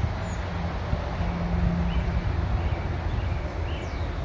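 Wind rumbling on the microphone outdoors, a steady low noise, with a few faint short high chirps.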